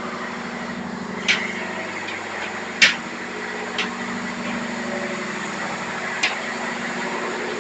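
Ship's engine-room machinery running with a steady hum, broken by four short sharp metallic clicks, the loudest about three seconds in.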